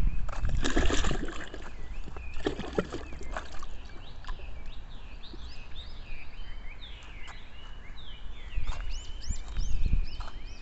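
Birds peeping over and over in short, high chirps that rise and fall, with a few sloshing, splashing noises in the first few seconds.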